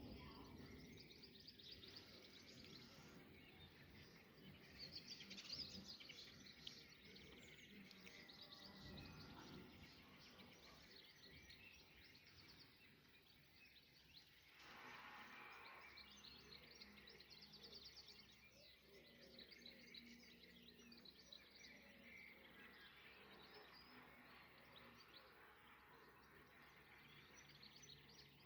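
Faint birdsong: several small birds chirping and trilling, over quiet outdoor background noise.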